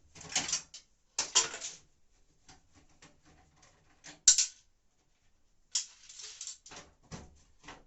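Tools and metal parts handled while a washing machine is being taken apart: a few short scraping, rattling bursts and scattered clicks, with one sharp metallic click about four seconds in.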